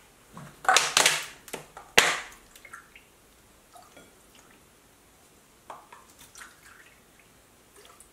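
Water poured from a plastic bottle into a paper cup and then from the cup into a glass bowl of pancake mix, a small dripping trickle. The plastic bottle crinkles loudly with a sharp click in the first two seconds.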